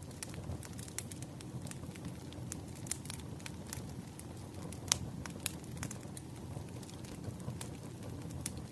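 Burning firewood crackling: irregular sharp pops over a low, steady rumble of the flames, with the loudest pop about five seconds in.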